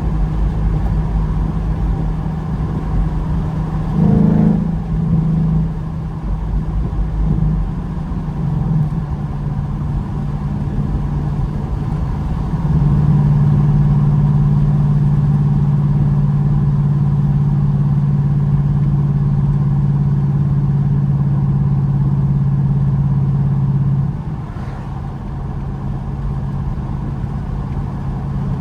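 Ford Mustang GT's 5.0-litre V8 engine and exhaust while driving: a steady drone with a brief rise in revs about four seconds in, a louder steady pull through the middle, then easing off about three-quarters of the way through.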